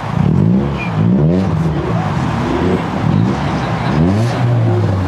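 Car engine being revved several times in quick succession, each rev a sharp rise in pitch that drops back again.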